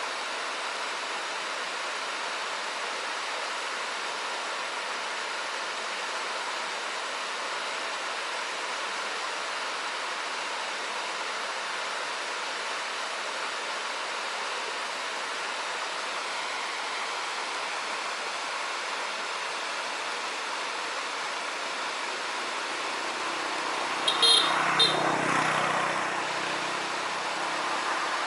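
Steady rush of flowing river water. Near the end a motor vehicle passes close by, its engine rising and fading, with two short high sounds about half a second apart as it goes.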